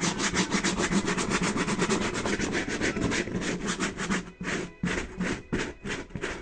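A clothes brush scrubbing rapidly back and forth over the crumbled, sticky foam backing of a car headliner board, scraping the old foam off. About eight strokes a second, slowing to a few separate strokes about four seconds in.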